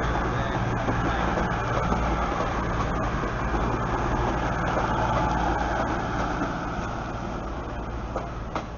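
Virgin Voyager diesel multiple unit running past, its underfloor diesel engines humming steadily under the rolling noise of the train. The sound eases off near the end as the cab end goes by, with a single sharp click just before the end.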